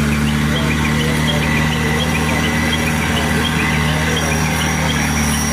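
An off-road vehicle's engine idling steadily with an even, low hum.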